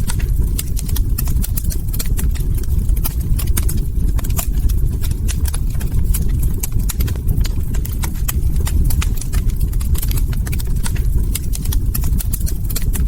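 Log fire crackling: many irregular sharp snaps and pops over a steady low rumble of burning.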